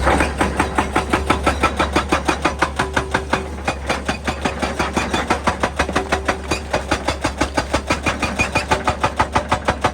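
Excavator-mounted hydraulic rock breaker hammering rock in a fast, even rhythm of about five blows a second, starting abruptly.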